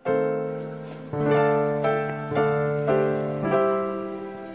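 Background piano music: a slow run of single struck notes, each ringing and fading, over a held low note.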